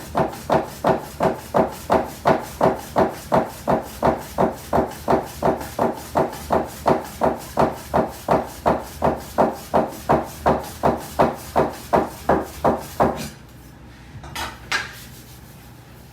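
Soba-kiri knife chopping through folded soba dough onto a wooden board, a steady run of sharp knocks at about three strokes a second that stops about 13 seconds in. One more single knock follows a little later.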